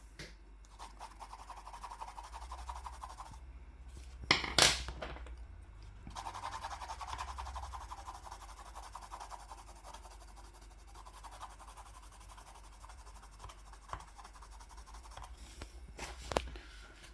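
Pencil strokes scratching across paper as the drawing is coloured in, in stretches with pauses between, and a couple of sharp knocks about four and a half seconds in and another near the end.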